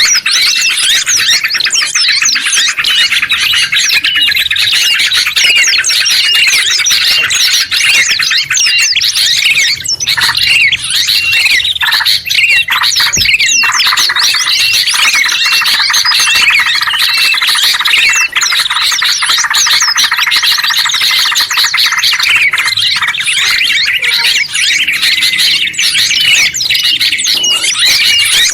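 A dense, layered mix of small songbirds singing and chirping at once, such as bulbuls, white-eyes and prenjak: rapid, repeated high chirps and trills with no pause.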